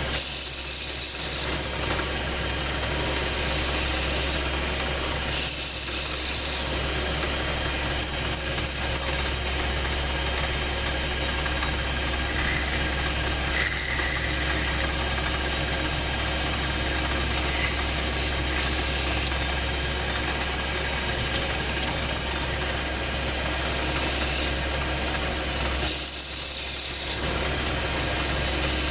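A small machine running steadily with a constant low hum. It has three short louder stretches and four quick clicks about eight seconds in.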